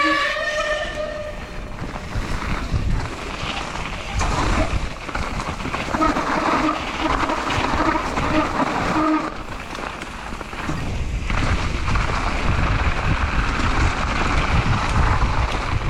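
Wind buffeting an action camera's microphone, a steady rumbling noise with scattered knocks and rattles.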